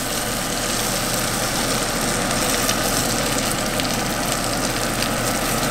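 Flounder fillets in an egg-and-flour coating frying in butter and olive oil in a hot pan: a steady sizzle with fine crackling.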